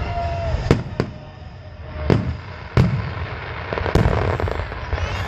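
Aerial fireworks shells bursting: about five sharp booms at uneven intervals a second or so apart, each trailing off in a short rumbling echo.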